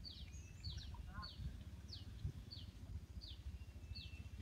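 A small bird calling over and over, short high chirps that each fall in pitch, at a steady rate of about three every two seconds, over a low steady rumble.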